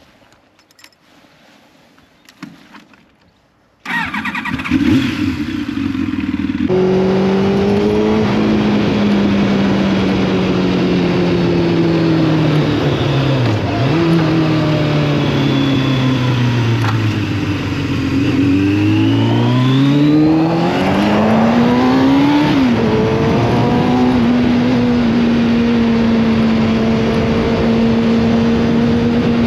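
Quiet for the first few seconds. Then, about four seconds in, a motorcycle engine and heavy wind noise come in at once, as heard while riding. The engine note drops slowly for several seconds, climbs again, then holds steady.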